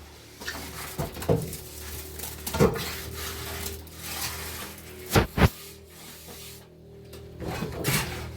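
A few knocks and clatters of objects being handled, two close together about five seconds in, over a steady low hum.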